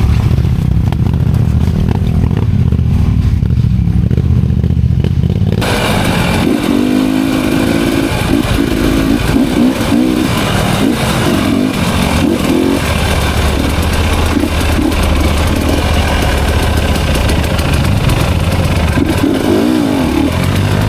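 Enduro dirt bike engine revving under load, with clatter. About five and a half seconds in, the sound turns brighter and noisier, the engine pitch wavering up and down.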